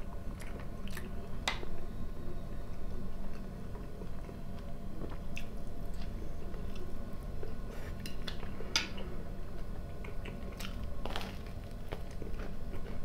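Close-miked chewing, crunching and wet mouth sounds of a man eating fried potatoes and smoked pork fat, with irregular sharp clicks throughout. Near the end he bites into crusty bread.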